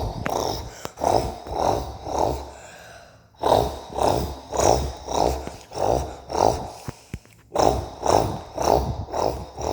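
A person's voice imitating a Dodge Cummins diesel cold start by mouth: rough, rhythmic pulses about two a second, with a short pause about three seconds in.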